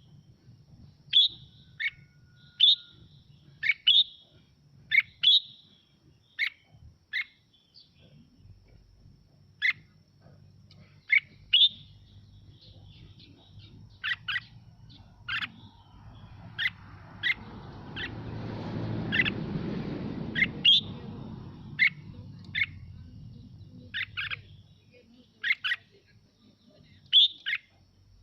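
Red-whiskered bulbul singing: short, bright, quickly falling notes repeated about once a second. A rushing noise swells up and fades away about two thirds of the way through, and a faint steady high whine sits under everything.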